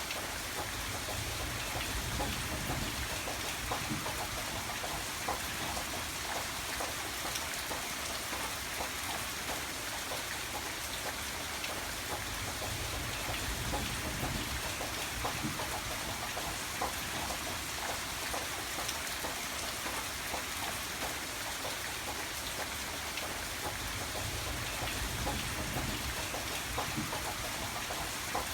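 Steady rain pattering on a surface, with fine drop ticks and a low rumble that swells and fades a few times.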